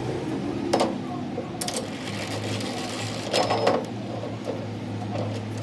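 Metal parts clinking and clanking, with a few sharper knocks, over a steady low machine hum in a metal repair workshop.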